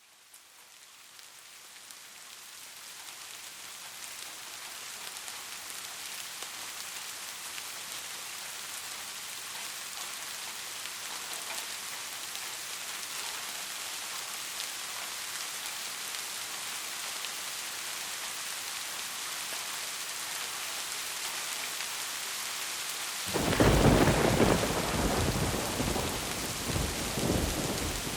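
Steady rain falling on a roof, fading in over the first few seconds, then a loud thunderclap about 23 seconds in that rumbles on in several swells for about five seconds.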